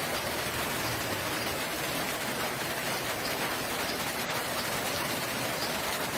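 Steady rain falling, an even continuous hiss of drops, with a few faint high chirps now and then.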